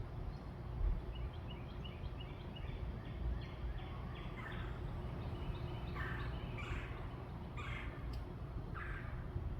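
Birds calling: a quick series of short, high chirps, then about five harsh, rattling calls roughly a second apart in the second half, over a steady low background rumble.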